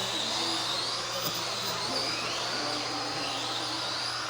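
Several RC Euro trucks racing, their electric motors whining and rising and falling in pitch as they speed up and slow down, over a steady low hum.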